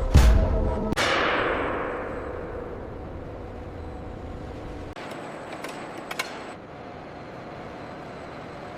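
Two heavy clanging impacts about a second apart. The second rings out and fades over a few seconds into a low steady background with a few faint clicks.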